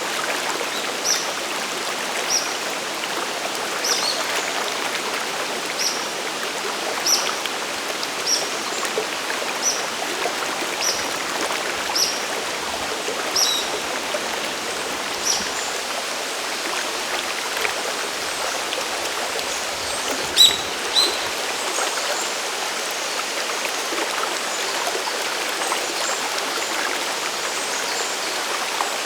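Water of Sagiri Falls and its mountain stream rushing steadily. Short high chirps sound over it about once a second through the first half, with two louder ones a little past the middle.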